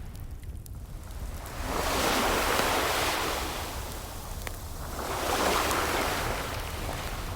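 Ocean waves washing in, two swells about three seconds apart over a steady low rumble of surf, with a single crackle from a wood fire.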